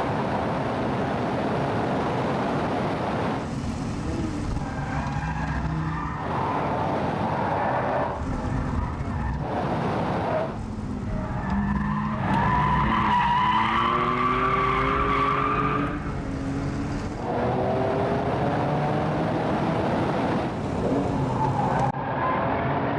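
RUF CTR Yellow Bird's twin-turbo flat-six driven hard, its note rising again and again as it revs up through the gears, in several short passages cut together.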